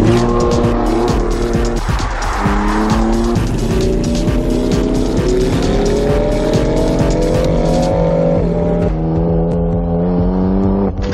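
Car engine revving hard with tyres squealing: the engine's pitch climbs steadily for several seconds, then drops sharply as if at a gear change about eight seconds in. After the drop it holds steady and the squeal fades.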